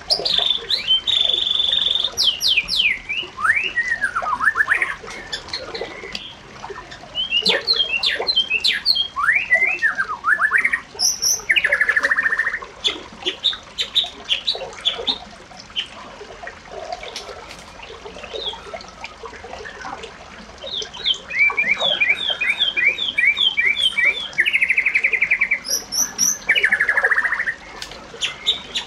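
Birds chirping and calling, with many short downward-sweeping notes and fast rattling trills overlapping one another and a quieter stretch in the middle.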